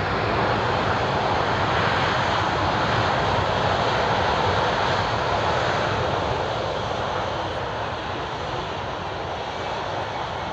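Jet engines of a C-17 Globemaster III (four turbofans), a loud steady rush that slowly fades over the last few seconds.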